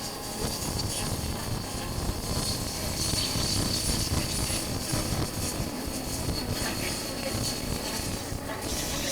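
Wind rushing and buffeting over a chest-mounted camera's microphone, mixed with the running engine of a Honda CB400X parallel-twin motorcycle under way.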